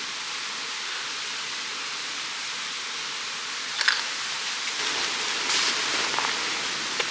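A mountain stream rushing steadily. About four seconds in there is a sharp click or knock, and from about five seconds on there is louder rustling and crunching close by.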